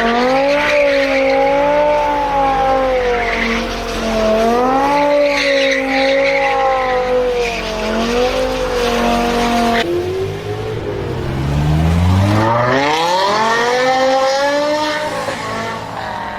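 BMW M5 E60's 5.0-litre V10 held at high revs, its pitch wavering up and down for about ten seconds. Then, after a cut, it pulls from low revs with a long, steady rise in pitch.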